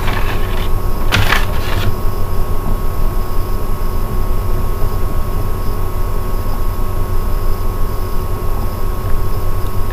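Steady low hum with a few faint steady tones, and two faint brief sounds in the first two seconds.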